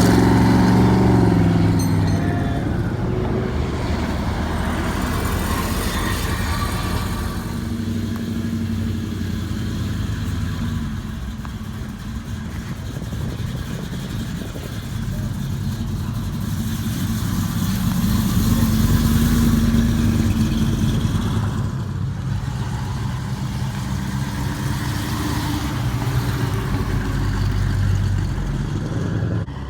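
Motor-vehicle engines running, with low, steady engine tones that swell and fade, loudest a little past the middle.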